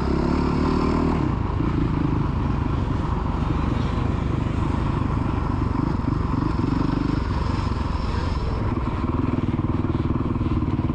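Child's motocross bike engine running and revving with the throttle held on, the pitch rising and falling as it rides the track.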